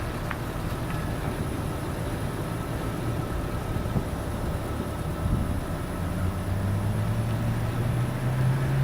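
Camaro SS 6.2-litre V8 running through a stainless-steel MRT cat-back exhaust with a low rumble. About six seconds in, the engine note strengthens into a steady low tone that slowly climbs in pitch.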